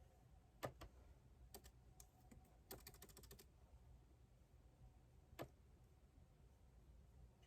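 Computer keyboard being typed on softly: a few scattered keystrokes, a quick run of about ten keys around the middle, then one last key press.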